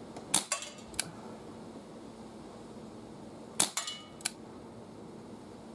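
Two shots about three seconds apart from a .22 Webley Mk6 CO2 air revolver fired single action. Each sharp crack is followed by two lighter clicks.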